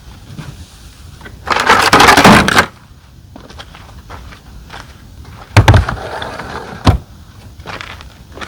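Handling noises from folding up a rooftop tent: a loud rasping pull lasting about a second, made of fast fine ticks, then a knock a few seconds later, a softer rustle and a second knock.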